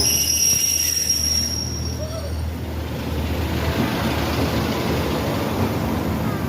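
Train running, with a high-pitched steady squeal over the first couple of seconds that then gives way to a steady rumble.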